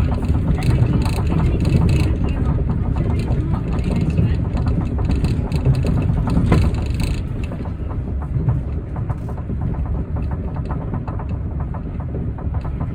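Osaka Metro New Tram, a rubber-tyred automated guideway train, running, heard from inside the car as a steady low rumble. A brighter high hiss over the rumble stops about seven seconds in, leaving fine rapid ticking over the rumble.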